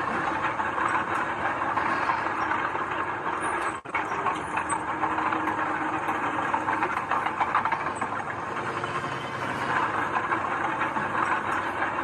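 Heavy earthmoving machinery running, a dense steady mechanical noise. It drops out for an instant about four seconds in.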